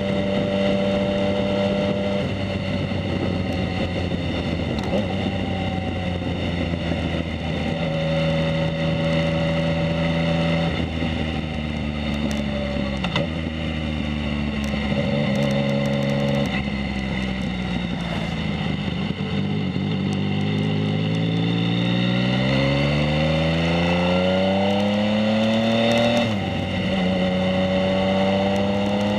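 2019 Yamaha MT-09's three-cylinder engine through a Two Brothers S1R full exhaust, ridden under way. It holds steady revs, then drops as gears change. Past the middle it pulls up in one long rising run, drops sharply at a shift and climbs again near the end.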